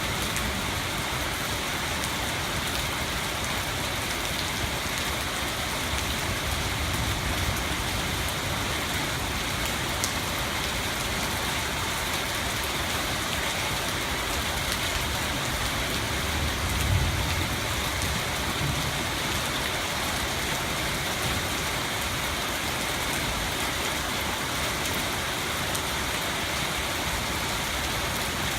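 Rain falling steadily and hard, hissing on surfaces, with a low rumble twice, about seven and seventeen seconds in.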